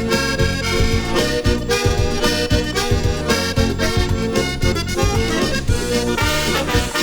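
Instrumental dance-band music with an accordion lead over bass and drums keeping a steady beat.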